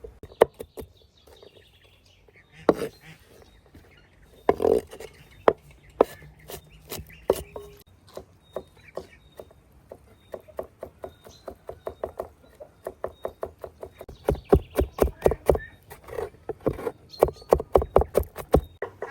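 Knife chopping on a wooden board: scattered strokes at first, then a quick even run of chops, about four or five a second, near the end.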